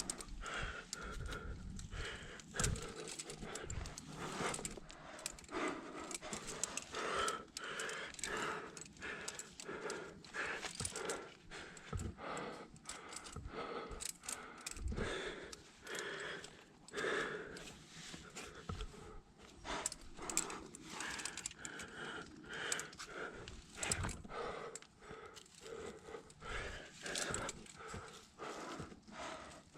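A climber breathing hard from exertion, panting over and over, with scuffs and small knocks scattered throughout.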